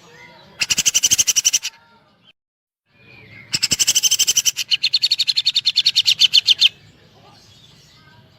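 Cucak jenggot (grey-cheeked bulbul) singing rapid-fire 'tembakan' runs of sharp, evenly spaced high notes, about eleven a second, in the woodpecker-like fill of its song. A short run of about a second comes first, then a longer run of about three seconds.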